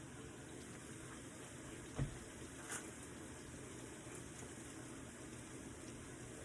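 Quiet kitchen with a faint steady hiss, a single soft knock about two seconds in and a light click just after.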